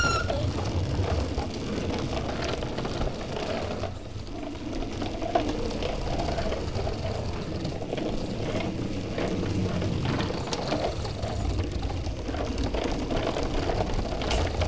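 A truck being driven along: a steady mechanical whirring with rattling and light ticks, wavering a little in pitch.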